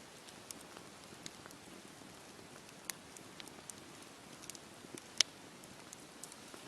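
Wood fire crackling in a fireplace: a soft steady hiss with scattered sharp pops, the loudest about five seconds in.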